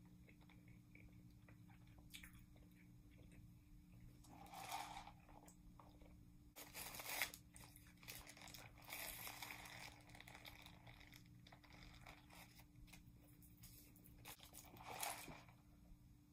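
Faint eating sounds: a person chewing and biting into a flaky croissant sandwich, with its paper wrapper rustling in short bursts, over a low steady room hum.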